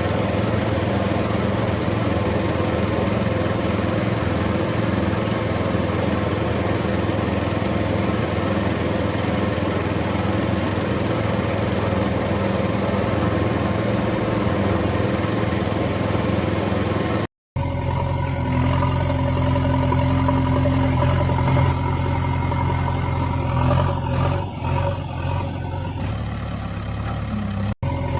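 A motor running steadily with a constant pitch. It cuts out abruptly about 17 seconds in, and a different, deeper engine-like hum starts straight after. A second very short dropout comes near the end.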